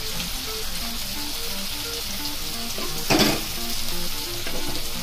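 Chopped onion, green chilli and tomato sizzling steadily in hot oil in a kadhai, with one loud scrape of the metal spatula against the pan about three seconds in.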